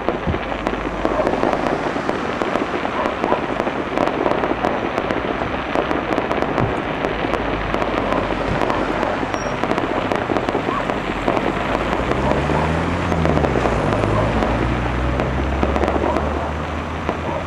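Fireworks display: a dense, steady crackle of many small bursts, with sharper pops scattered through it.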